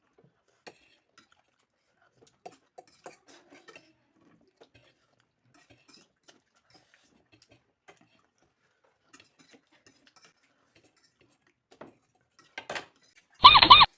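Faint eating sounds: scattered light clicks of utensils on a plate and chewing. Near the end, a short, loud, wavering high-pitched sound cuts in briefly.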